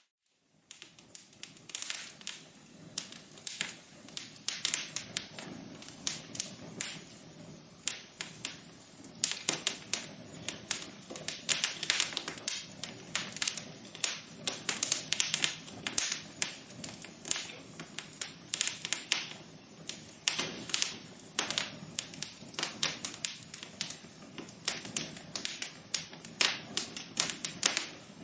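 Wood fire crackling in a fireplace: irregular pops and snaps over a steady low hiss of burning. It comes in after a brief moment of near silence at the start and grows busier from about ten seconds in.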